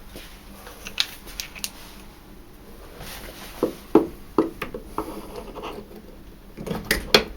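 Scattered light clicks and knocks of hands working inside a tumble dryer's base, unplugging wire connectors and handling plastic parts around the condensate pump. There are a few clicks about a second in, then sharper knocks in two clusters around the middle and near the end.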